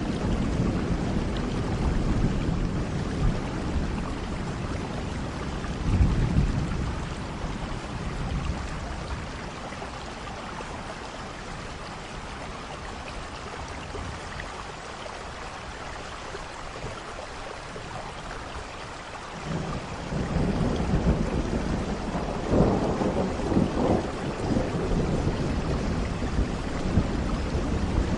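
Steady rain with rolling thunder. Deep rumbles swell about six seconds in, die back to plain rain for a while, then build again a little after the middle and keep rumbling to the end.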